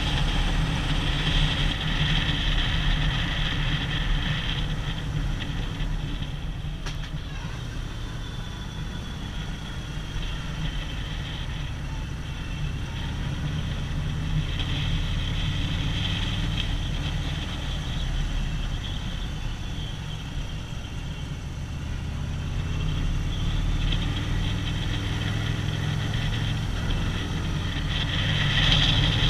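Harley-Davidson motorcycle's V-twin engine running steadily under way, quieter through the middle and louder again near the end.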